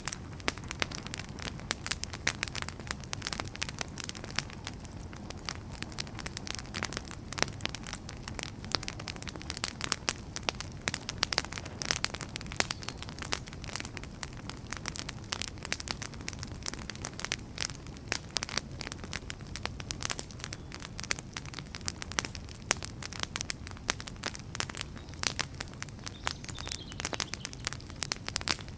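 Wood fire crackling: many irregular pops and snaps, some sharper than others, over a steady low rush of the burning logs.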